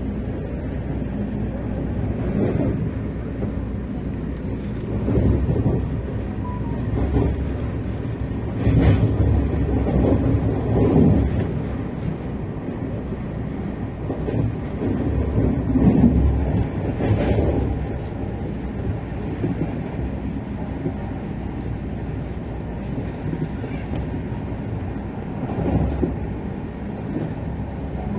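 Steady low rumble of a moving vehicle, swelling louder several times, with faint ticks above it.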